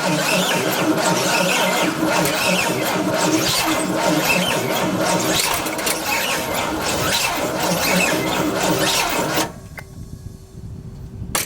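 Big-block V8 of a 1969 C50 truck cranking over on its starter after sitting for decades, primed with gas in the carburetor and not yet catching. The cranking stops about nine and a half seconds in, and starts again with a rapid even chatter just at the end.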